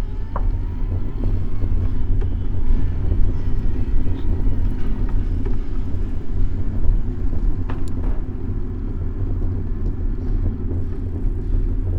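City street traffic heard from a moving bicycle, under a steady low rumble from the ride on the bike-mounted microphone. Two sharp clicks come through, one right at the start and one about two-thirds of the way in.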